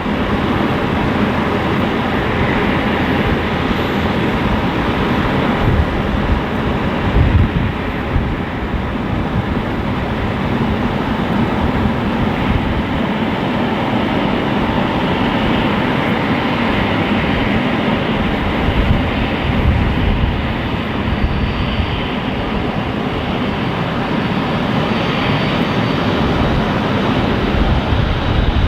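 Airbus A330 jet engines running, a loud steady rumble and hiss with a faint low hum in it.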